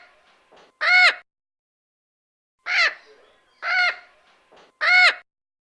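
Parrot squawking: four short calls, each rising and then falling in pitch, with short pauses between them.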